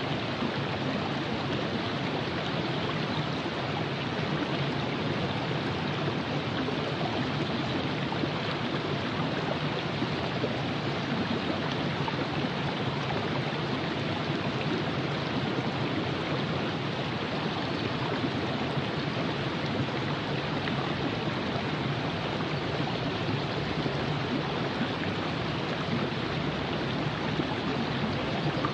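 Virgin River flowing: a steady, even rush of running water over the riverbed.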